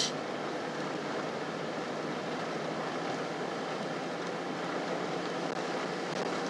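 Steady road and tyre noise of a 2000 Chevrolet Silverado pickup driving on a snow-covered, partly plowed freeway, heard from inside the cab. A brief click comes right at the start.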